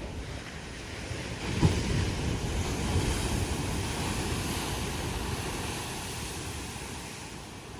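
Rough surf: a big wave breaks against a rocky shore about a second and a half in and washes back, slowly subsiding, with strong wind buffeting the microphone.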